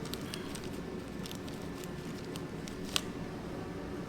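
Light clicks and crinkling of small parts being handled, with one sharper click about three seconds in, over a steady low hum.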